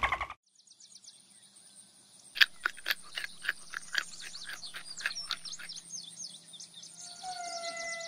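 High-pitched animal chirping and twittering, with a quick run of sharp chirps from about two seconds in. Near the end a long, steady whistled call begins.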